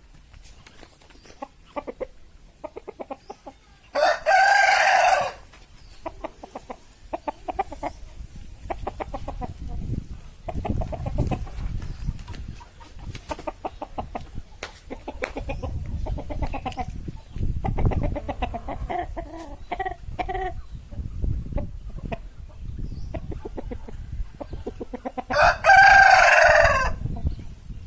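Rooster crowing twice, once about four seconds in and again near the end, each crow short and loud, with softer clucking and calls in between.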